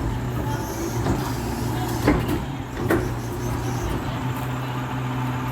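Garbage truck engine running steadily, with two sharp knocks a little under a second apart.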